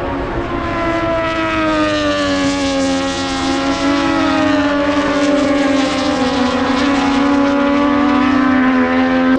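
A racing motorcycle engine held at high, steady revs. Its pitch sags gently through the middle and climbs again near the end.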